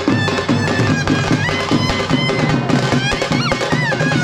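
Tamte frame drums beating a fast, steady rhythm for Veeragase folk dance, with a high, wavering wind-instrument melody over the drumming.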